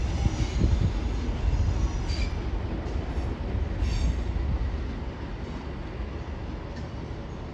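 Two diesel multiple-unit trains departing side by side: a low engine and rail rumble that fades as they pull away, with brief high wheel squeal about two and four seconds in.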